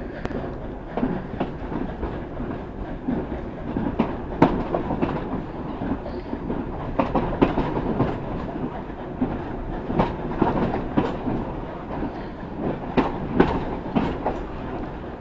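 Passenger train carriages running along the track, a steady rumble with irregular sharp clicks and knocks from the wheels passing over rail joints, heard from aboard the train.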